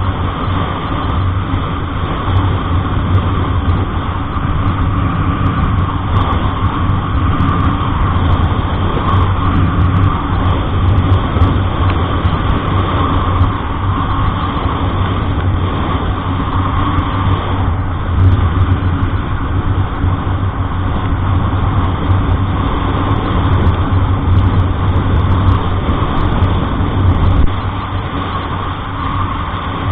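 Steady engine and road noise of a moving road vehicle, with a strong low hum.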